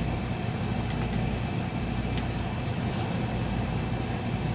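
Steady low mechanical hum of background machinery, with a couple of faint clicks of hand-tool work.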